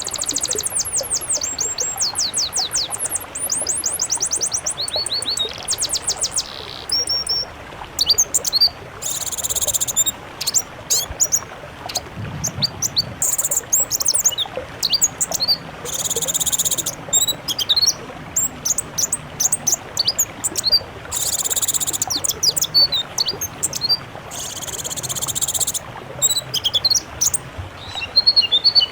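Songbirds singing in a mixed bird-song recording: first a fast, high trill of repeated falling notes, then sharp chirps and clicks broken four times by harsh, hissing bursts about a second long.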